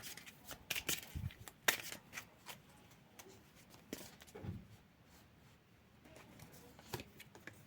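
Tarot cards being handled at a table: scattered soft clicks and slaps of cards being shuffled and laid out, busiest in the first few seconds and sparser after.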